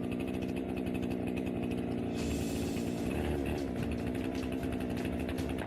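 A chainsaw engine running steadily at high speed, with a brief dip in pitch about three seconds in.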